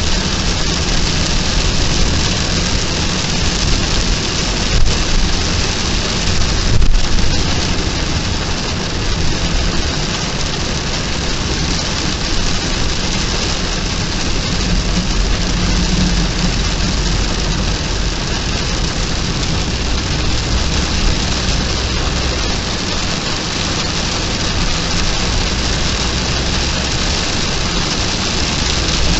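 Heavy rain pouring steadily in a storm, with a low rumble underneath and a couple of brief knocks about five and seven seconds in.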